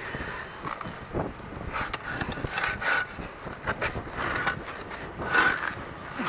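Scrap metal being handled: irregular clanks and scrapes, several with a brief metallic ring, over wind noise on the microphone.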